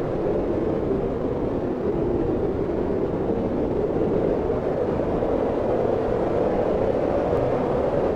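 Steady wind blowing: an even, continuous rushing noise, deepest in the low-middle range, with no gusts or breaks.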